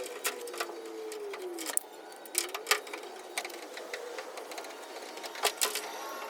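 Irregular light metallic taps and clicks from paintless dent repair tools working the dented quarter panel of a Ram truck, with faint falling squeaks in the first two seconds.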